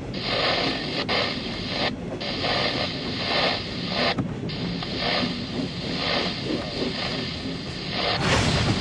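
Freight train rolling past, heard from inside a car in the rain: a steady rushing noise that swells and eases about once a second, broken twice by brief dropouts.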